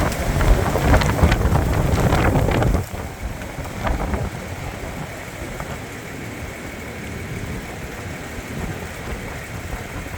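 Strong wind buffeting the microphone, loud gusts for the first three seconds that cut off suddenly, then a steadier, lighter rush of wind.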